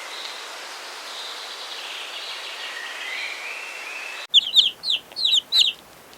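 A steady rushing noise with faint whistled bird notes in it stops abruptly about four seconds in. Chickens then give a string of short, sharp, high chirps, mostly in quick pairs.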